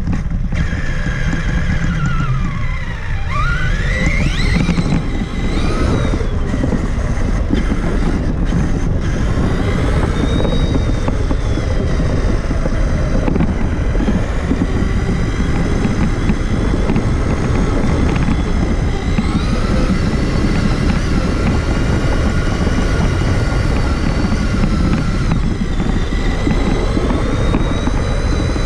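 Onboard sound of a Traxxas Summit 1/10-scale electric RC truck driving: the motor and drivetrain whine rises and falls in pitch with the throttle, with a sharp dip and climb about three seconds in, over a steady heavy low rumble.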